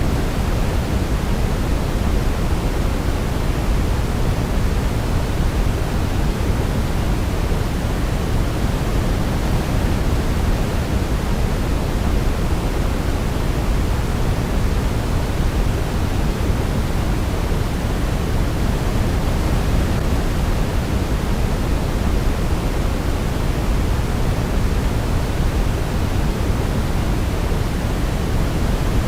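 Steady sleep white noise: an even hiss with a deep rumble beneath it, unchanging throughout, with no melody standing out.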